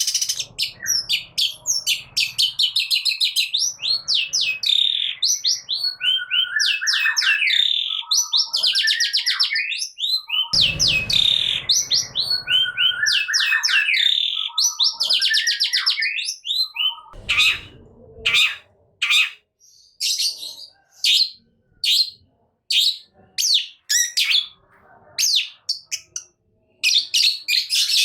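Long-tailed shrike (cendet) singing loudly: a varied run of rapid trills and sweeping whistles, then, from about halfway, a string of short sharp calls in quick succession. A couple of low bumps are heard along the way.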